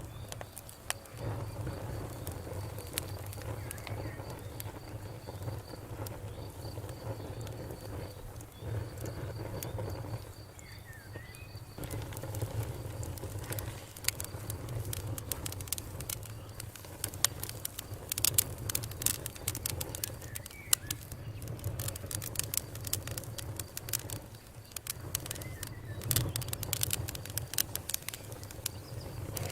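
Campfire crackling, with many sharp pops and snaps over a steady low rumble of burning wood. The pops come more thickly in the second half.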